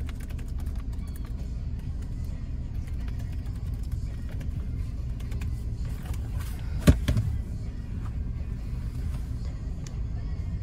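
Car engine idling steadily, heard from inside the cabin, with light clicks of laptop typing in the first couple of seconds and one sharp knock about seven seconds in as the laptop is lifted off the steering wheel and put away.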